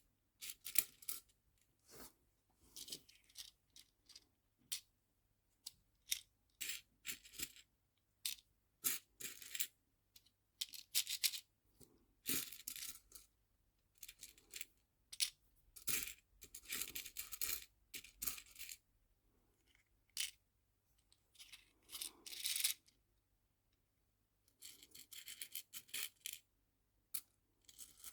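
Small nail-art charms clicking and rattling in short irregular bursts as they are handled and sorted into small storage boxes, with brief pauses between.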